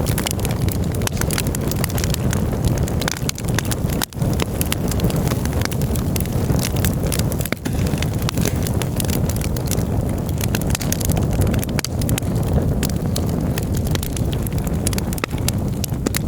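Wood campfire burning, with frequent sharp crackles and pops over a steady low rush.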